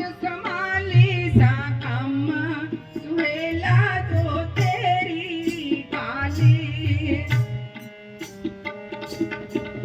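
Gurbani kirtan music: tabla drumming under a gliding, ornamented melody line. The deep drum strokes drop out for a moment near the end and then come back.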